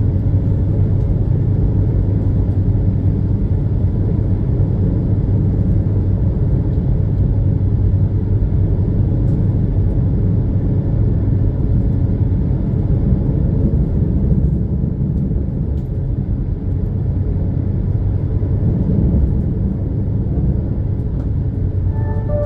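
Steady low rumble and hum of the Superjet 'Dogo' high-speed passenger ferry's engines under way, heard aboard, easing slightly for a moment about two-thirds of the way through.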